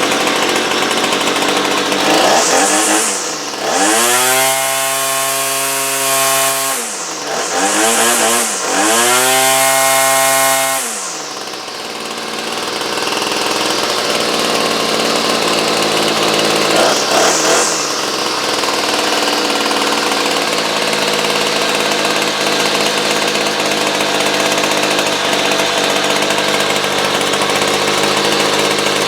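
Small two-stroke engine of a cheap department-store power tool, freshly carburettor-tuned, revved to full throttle twice for a few seconds each, then settling to a steady idle after a short blip of throttle.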